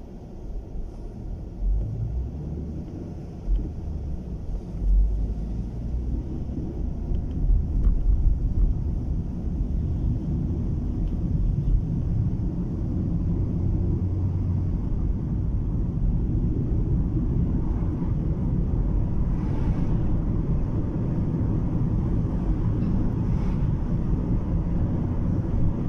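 Car driving, heard from inside the cabin: a steady low rumble of road and engine noise that grows louder over the first eight seconds or so, with a few low thumps, then holds steady.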